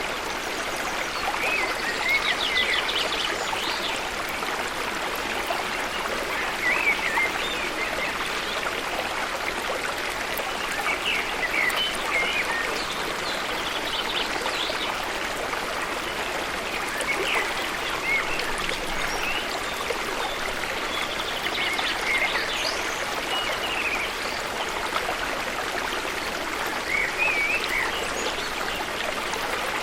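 Steady rush of falling and flowing water at a waterfall, with birds chirping briefly every few seconds over it.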